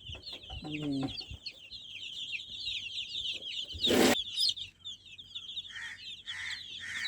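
A group of chicks peeping without pause, many high, short, downward-slurred cheeps overlapping. A sharp knock stands out about four seconds in.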